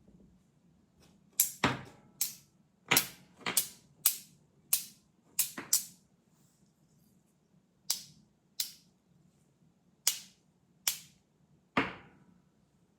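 Magnets snapping together: a series of about fifteen sharp clicks at uneven intervals, with a pause of about two seconds midway.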